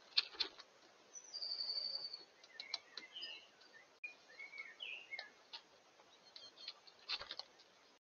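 Wild songbirds calling around a feeder: one long high whistled note about a second in, then several short chirps. Sharp taps and clicks come in clusters near the start and again near the end.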